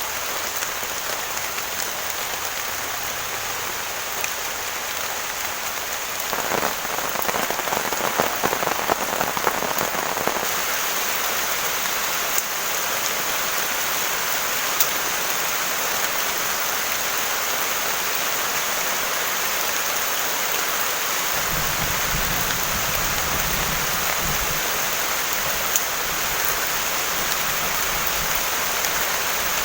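Heavy rain falling steadily, with a spell of denser, louder drop impacts about six to ten seconds in. From about twenty-one seconds a low rumble of distant thunder rolls under the rain.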